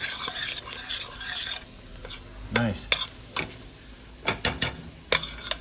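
Chicken wings sizzling in a pot of butter and curry as they are stirred. A utensil knocks against the pot several times in the second half.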